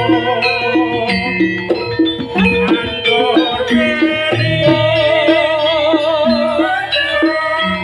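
Live Javanese jaranan pegon dance music: a drum-and-percussion ensemble with repeated low pitched notes, under a melody sung or played with strong wavering vibrato.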